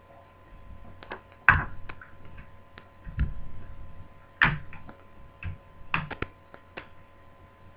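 Plastic clips of a Toshiba Satellite T130 laptop's keyboard cover strip clicking and snapping as the strip is pried loose: a series of sharp clicks, the loudest about one and a half seconds in, with a short scraping stretch around three seconds in and a quick cluster of clicks near six seconds.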